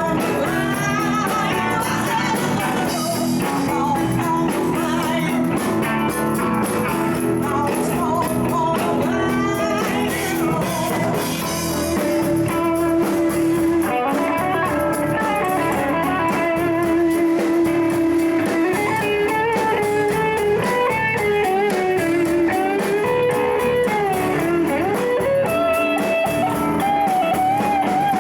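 Live band playing a blues jam, with guitar to the fore and a melody line that bends and slides in pitch.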